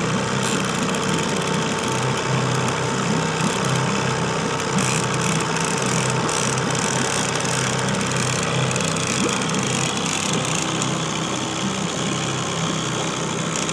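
Boat's outboard motor running steadily at trolling speed, a constant low hum.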